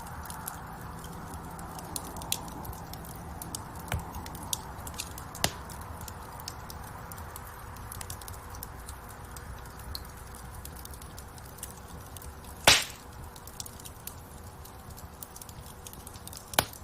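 Wood fire burning in a fireplace: the flames make a steady low rumble, with frequent small crackles of burning wood and two loud pops, one about thirteen seconds in and one near the end.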